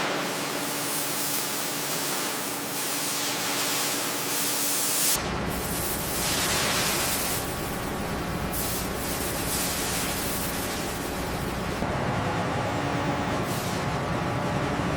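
Steady hissing noise like a spray, changing abruptly about five seconds in, when a low rumble joins it, and again near twelve seconds.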